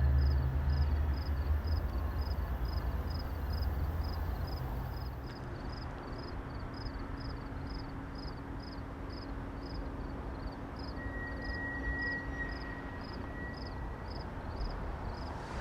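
Low diesel rumble of a passing GO Transit F59PH diesel-electric locomotive and its train. It is loudest for the first few seconds, then dies down to a quieter hum. A faint high ticking repeats about two and a half times a second throughout.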